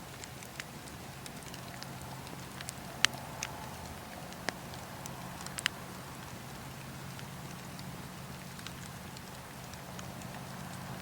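Wood campfire crackling, with scattered sharp pops over a steady low rumble of the burning fire; the loudest pop comes about three seconds in.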